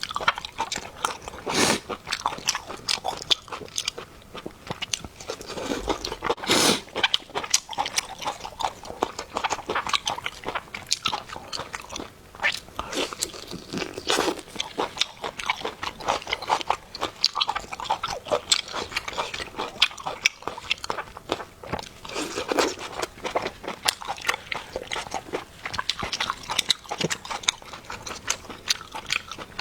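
Person eating, biting and chewing with a lot of irregular crunching throughout.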